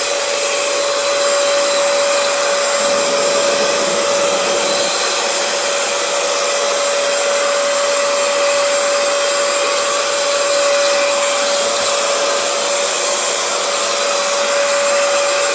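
Hoover FloorMate Edge hard-floor cleaner running steadily in wash mode: its suction motor gives an even rushing air noise with a steady whine.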